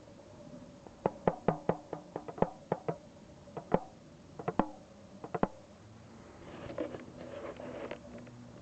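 A drum struck by hand or stick in an irregular rhythm, about a dozen sharp strikes with a short ring, then a softer, noisier sound near the end.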